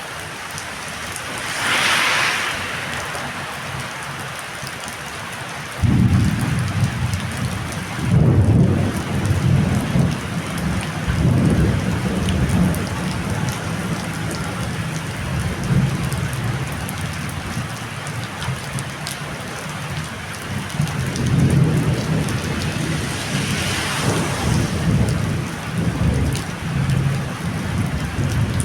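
Heavy rain falling steadily in a storm, its hiss swelling twice. From about six seconds in, an uneven, gusting low rumble joins it and runs on under the rain.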